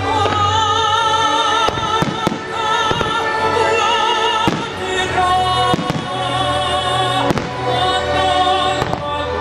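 Fireworks shells bursting with sharp bangs every second or so, over loud orchestral music with an operatic voice singing with vibrato.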